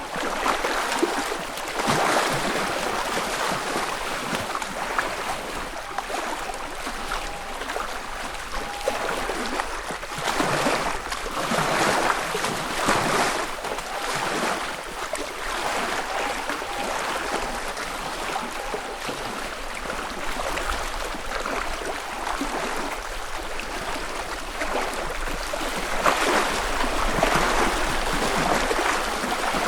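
Small ripples on a calm freshwater lake lapping against the shore, a soft splashing wash that swells and falls in irregular surges every second or two.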